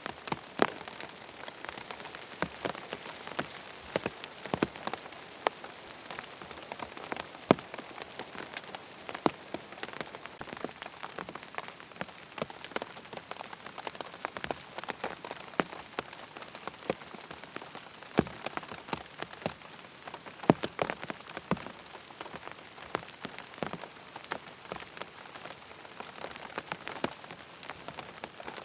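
Steady rain falling in an even hiss, with irregular sharp taps and ticks over it.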